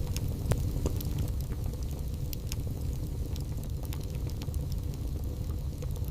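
Wood fire burning in a fireplace: a steady low rumble with scattered sharp crackles and pops from the burning logs, the strongest about half a second and a second in.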